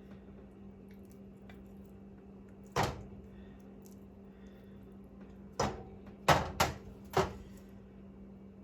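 Sharp kitchen knocks and clatter: one about three seconds in, then four in quick succession near the end, over a steady low hum.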